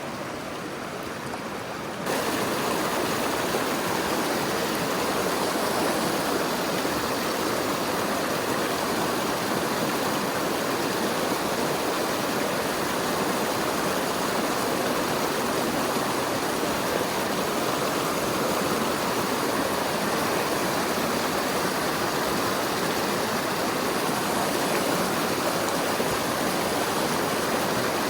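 Mountain stream water rushing, a steady noise that jumps louder about two seconds in.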